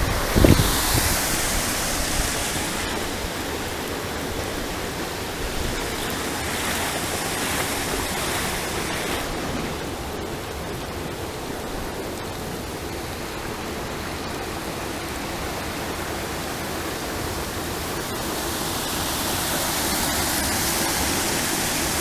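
Floodwater rushing steadily down a swollen small river. A low thump comes about half a second in.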